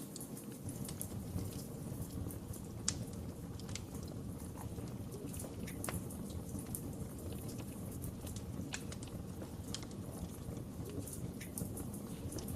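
Wood fire crackling, with irregular sharp pops and snaps over a low, steady rumble of burning; one pop about three seconds in stands out.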